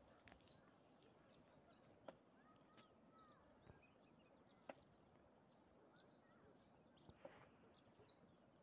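Near silence in the open, with faint, short bird chirps scattered throughout and a couple of sharp clicks, about two seconds in and near the middle.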